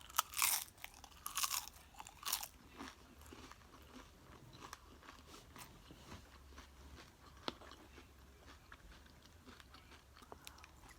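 Close-up crunching and chewing of a mouthful of loaded nachos: several loud crisp crunches of tortilla chips in the first two seconds or so, then softer chewing with small clicks.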